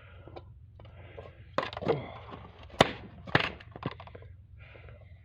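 Handling noises as someone struggles to get canned, paste-like chicken out of its tin: four sharp knocks, the loudest about halfway through, with scraping and rattling between them.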